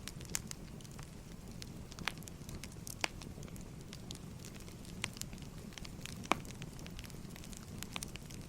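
Firewood burning: a steady low rumble of the fire with irregular sharp crackles and pops, the loudest snap about six seconds in.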